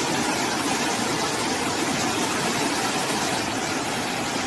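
Steady rush of flowing floodwater, an even noise with no breaks.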